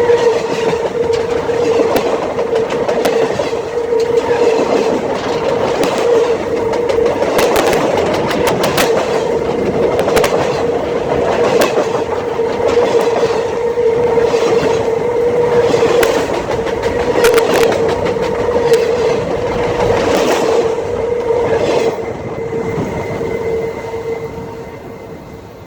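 Freight train cars rolling over a camera set on the track: wheels clacking over the rail with many sharp knocks above a steady ringing tone from the wheels and rail. The sound tapers off over the last few seconds as the end of the train passes.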